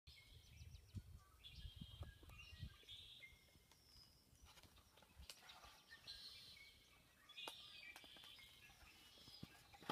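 Faint birdsong: many short chirps and quick trills, with a few faint clicks.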